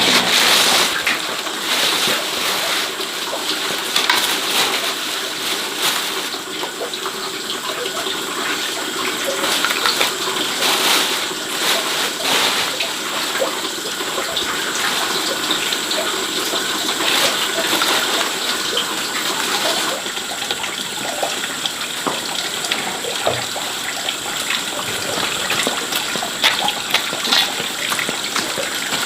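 Water running or gushing steadily, with scattered small clicks and knocks.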